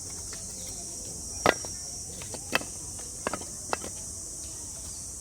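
Steady high-pitched chorus of cicadas. A few sharp knocks break in: the loudest about a second and a half in, another about a second later, and a quick cluster after that.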